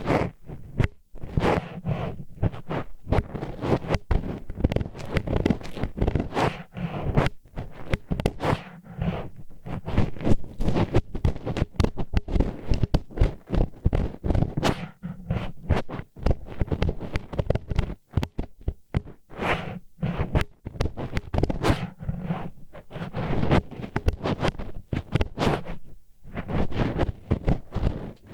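Disposable wooden chopsticks scraping and rubbing inside a binaural microphone's ear, a dense run of irregular gritty scrapes and scratches, several a second, with short pauses.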